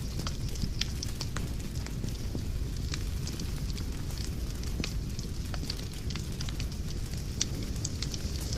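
Wood fire burning in a fireplace, with a steady low rumble and irregular sharp crackles and pops.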